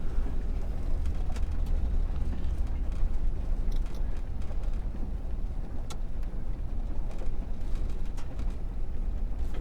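Vehicle driving slowly over a rough grassy track, heard from inside: a steady low rumble of engine and tyres with a few faint rattles and clicks.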